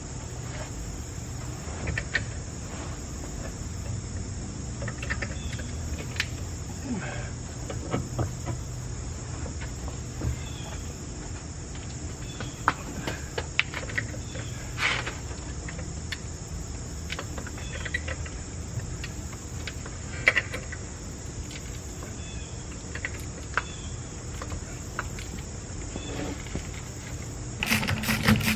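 Crickets chirring steadily, over a low hum, with scattered light clicks and knocks throughout and a louder clatter near the end.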